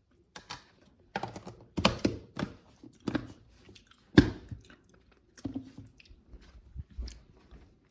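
Kitchen clatter of food being dished up: a serving utensil and dishes clicking and knocking against a plate in an irregular run of sharp clicks, with one louder knock about four seconds in.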